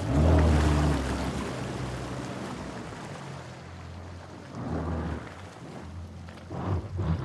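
Creek water running steadily with a low rumble, swelling loudest at the start and again in surges about five seconds in and near the end.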